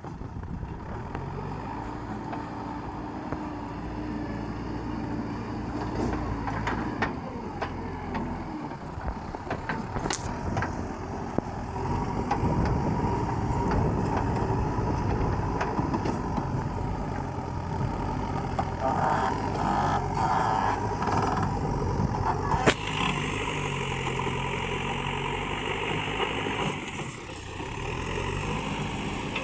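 Heavy vehicle engine running, its pitch rising and falling as it revs and moves, with a sharp knock about two-thirds of the way through.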